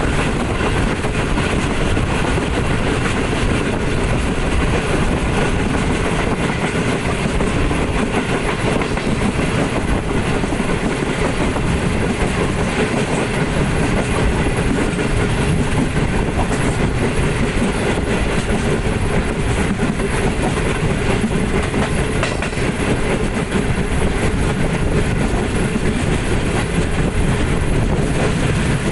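Running noise of a Pakistan Railways Green Line passenger coach in motion, heard from an open door of the coach: wheels rolling over the track with a steady rumble and rattle.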